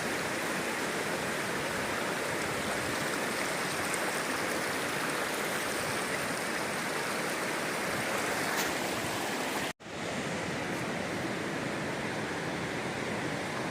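Steady rush of a waterfall and its stream of water. The sound cuts out for an instant about ten seconds in, then carries on slightly duller.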